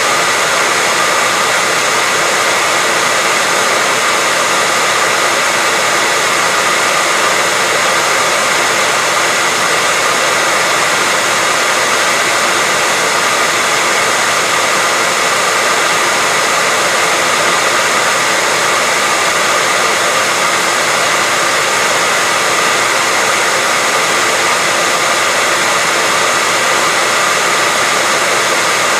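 Hair dryer running steadily with no change, a continuous airy whoosh with a faint steady whine in it.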